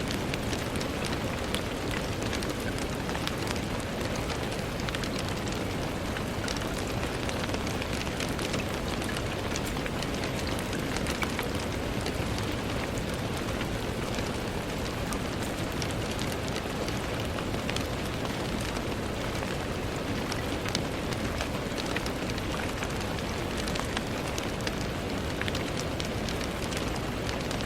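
Steady rain on a window: a dense, even hiss with many small ticks of single drops striking.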